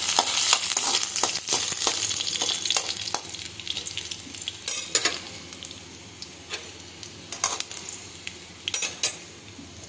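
Chopped garlic sizzling in hot mustard oil in a metal kadhai while it browns, stirred with a metal spatula that clicks and scrapes against the pan now and then. The sizzle is strongest in the first few seconds, then dies down.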